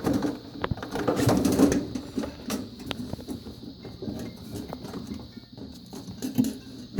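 Hands working plastic freezer panels and wiring, with rustling and scraping and several sharp clicks as parts are handled and fitted.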